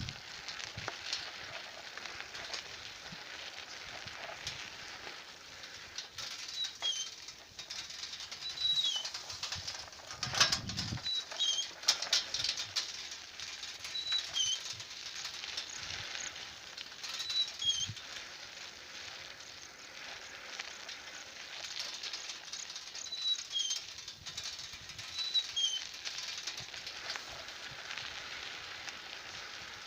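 Short, high bird chirps repeating every second or two, over a steady crackling rustle with scattered clicks.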